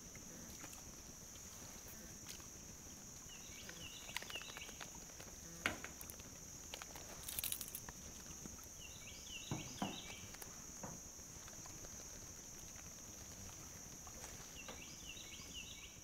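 Faint swamp ambience: a steady high insect drone, with a bird repeating a short call about every five seconds. A few faint knocks come in the middle.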